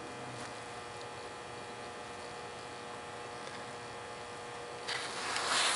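A steady hum with a thin held tone, then a louder rushing, rustling noise starting about five seconds in.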